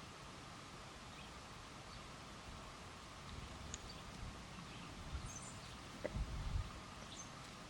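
A few faint, short, high-pitched bird chirps over steady outdoor background noise, with a couple of low thumps about six seconds in.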